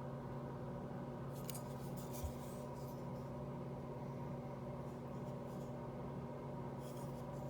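Faint rustling and light scraping from hands handling a folding knife, in a few short spells, over a steady electrical hum.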